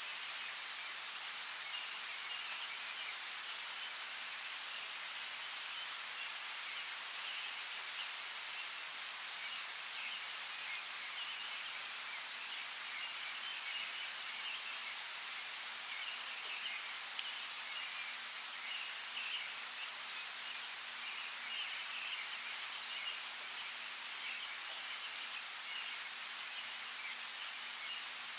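Steady rain falling, with a few sharper drops, and small birds chirping faintly throughout behind it.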